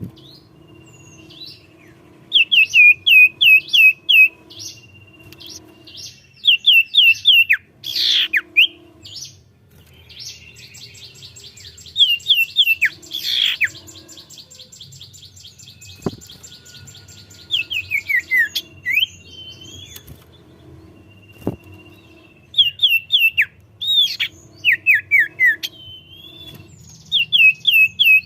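Cipoh (iora) singing vigorously: repeated bursts of four or five quick down-slurred whistles, with a long rapid high trill about ten seconds in, over a low steady hum.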